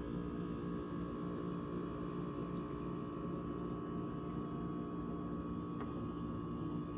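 GE GTH18XCTZRBB refrigerator running as it restarts after its defrost heating cycle: a steady hum with a fainter, higher steady tone above it. There is one faint tick about six seconds in.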